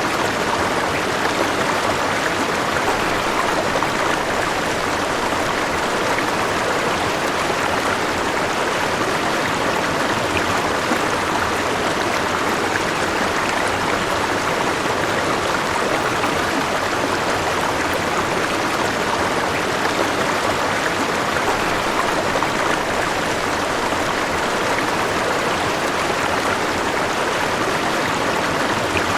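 River water flowing steadily over stones, a continuous rushing and babbling.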